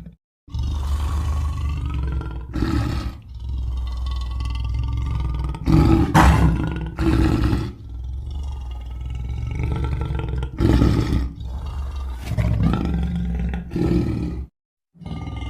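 Bear sound effect: a continuous low growl with several louder roars breaking over it, then a brief silence shortly before the end.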